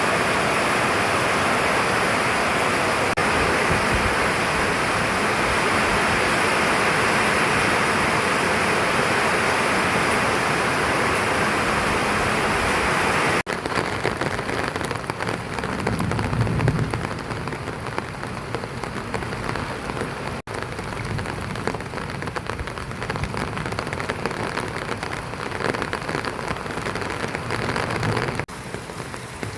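Heavy rain falling as a dense, steady hiss. About halfway through it cuts abruptly to lighter rain with distinct drops hitting a surface, with a brief low rumble a few seconds after the cut.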